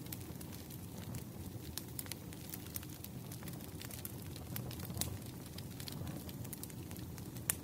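Wood fire crackling: irregular snaps and pops over a low, steady rumble of burning logs, with a louder pop about five seconds in and another near the end.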